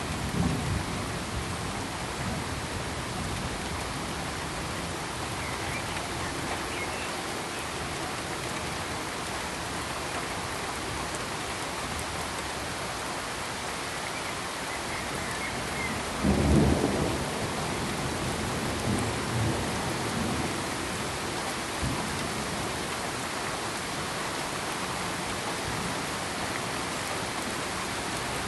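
Steady, even hiss of pink noise, with a brief low rumble about sixteen seconds in and smaller ones near the start and around nineteen seconds.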